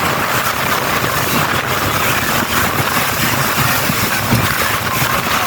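Motorboat engine running steadily under way, with a continuous rush of noise over its low rumble.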